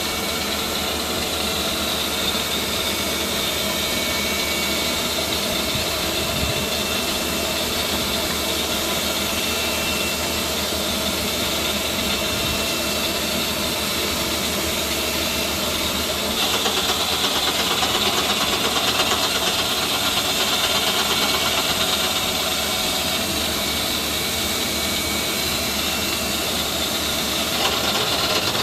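Machine-shop cutting machine running continuously as it machines a cylinder head's combustion chamber into a hemispherical shape (a 'Hemi Cut') to lower the compression. A steady motor-and-cutter hiss that grows a little louder and sharper about halfway through.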